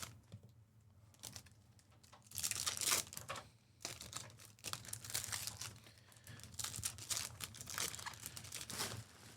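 Plastic wrappers of trading card packs being torn open and crinkled, in irregular rustling bursts that are loudest about two to three and a half seconds in.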